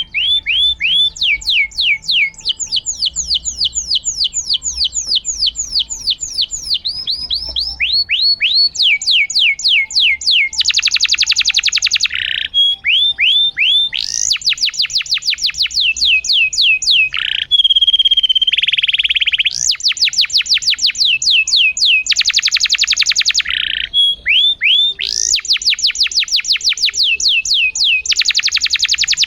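Domestic canary singing continuously: runs of quick, falling whistled notes, several a second, alternating with fast dense trills.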